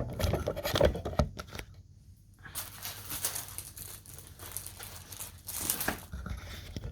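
Plastic packaging crinkling and rustling as it is handled, in irregular bursts with a short pause about two seconds in.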